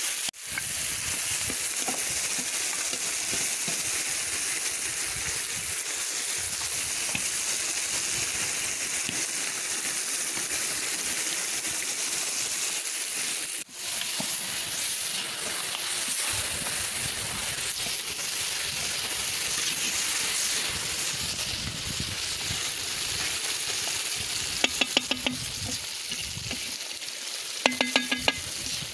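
Beef and onions sizzling in hot oil in a cast-iron kazan over a wood fire, stirred with a metal skimmer: the onion-and-meat frying stage of plov. Near the end come two short runs of rapid tapping.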